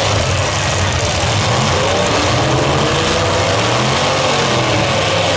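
Several demolition derby cars' engines running together and revving, their pitches wandering up and down.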